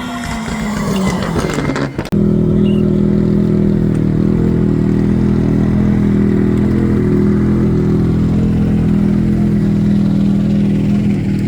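An engine: its pitch falls over the first two seconds, then after an abrupt change about two seconds in it runs steadily at a constant speed.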